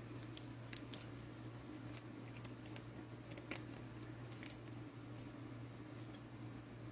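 Trading cards being handled and sorted: scattered light clicks and snaps of card stock at irregular intervals, over a steady low room hum.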